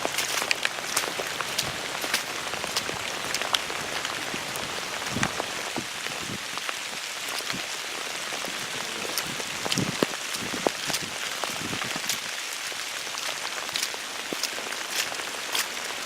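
Steady rain falling, with many individual drops ticking sharply close to the microphone.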